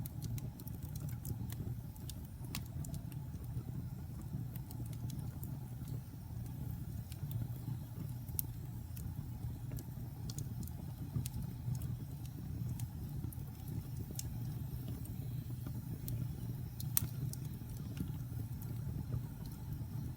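Fire burning in a fireplace: a steady low rumble of flames with scattered sharp crackles and pops, the loudest about 17 seconds in.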